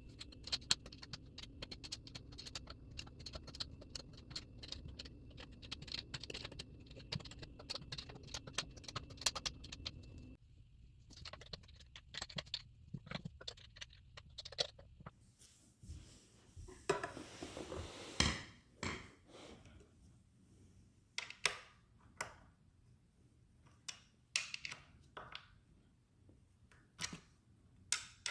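Rapid clicking and rattling of metal hand tools and hardware while the stool frame is screwed and bolted together. A steady hum under the dense clicks stops about ten seconds in, and sparser clicks and a louder rattle follow.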